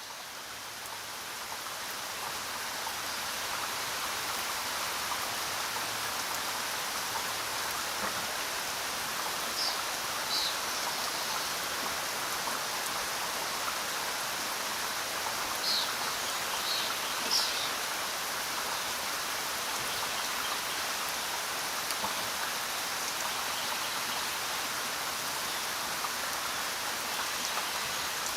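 Steady rain falling, a dense even hiss that swells up over the first few seconds, with a few brief high-pitched sounds in the middle.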